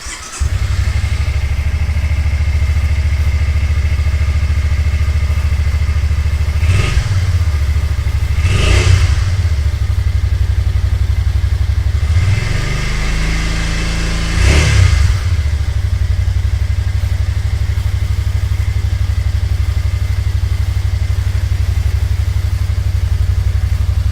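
Suzuki Intruder Classic 400's fuel-injected V-twin engine catching just after the start and settling into a steady idle. The throttle is blipped briefly twice about a third of the way in, then once with a longer rev a little past the middle, before it returns to idle.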